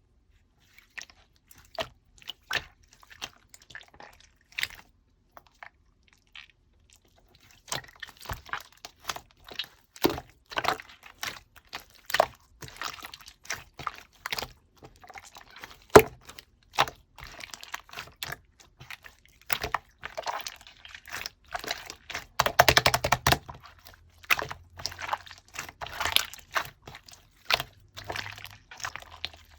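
Cold clear slime being squeezed and pressed by hand, giving irregular sticky clicks and crackling pops. The pops are sparse at first and come thick and fast from about a third of the way in, with a quick run of crackles near the end.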